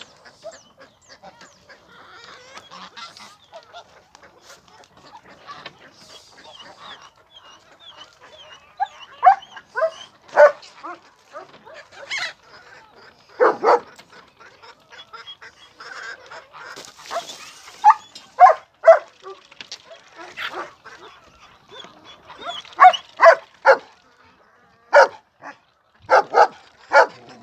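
A flock of poultry calling: a soft chatter of calls at first, then loud, short calls in quick runs of two to four.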